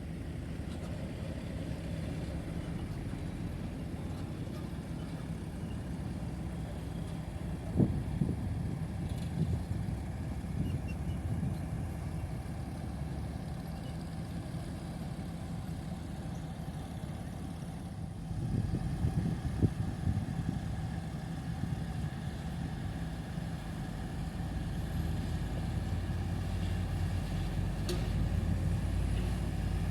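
Heavy diesel earthmoving machinery running with a steady low rumble, with a few sharp knocks about eight seconds in and again around twenty seconds in, the engine noise growing louder near the end.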